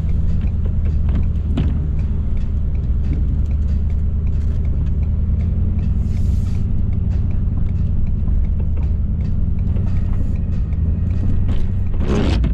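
Ford F-350's 6.7-litre Power Stroke V8 turbo-diesel running at a steady engine speed as the truck plows snow, with a short rush of noise near the end.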